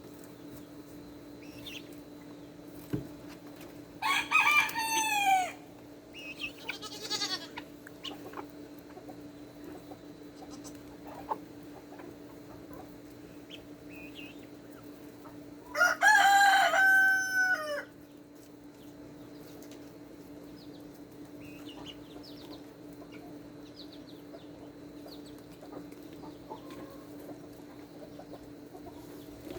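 A rooster crowing twice, about four seconds in and again about sixteen seconds in, with a shorter call soon after the first crow and scattered soft clucks and chirps from the flock between, over a steady low hum.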